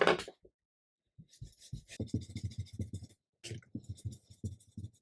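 A stencil sponge dabbing rapidly on paper through a stencil: a quick run of soft taps, about eight a second, then slower, more spaced dabs in the last second and a half.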